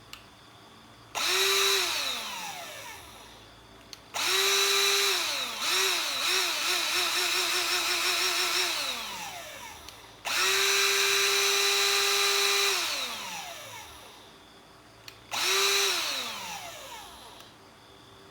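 Electric dust blower's motor switched on four times in short runs, each time spinning up at once to a high whine and then winding down as it coasts to a stop. In the second run the power cuts in and out rapidly, about three times a second, before the motor spins down.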